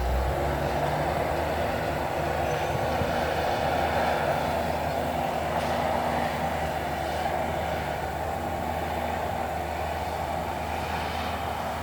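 Bulldozer's diesel engine running steadily with a continuous grinding rumble as it works through brush and weeds.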